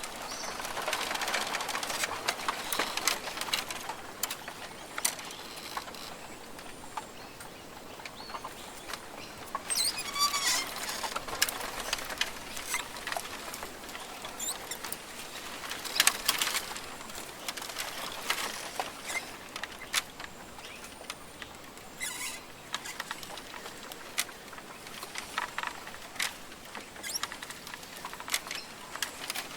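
Rainforest ambience: scattered bird calls over a soft background hiss, with many sharp clicks and taps. A quick run of chirps comes about ten seconds in, and a louder short call or snap about six seconds later.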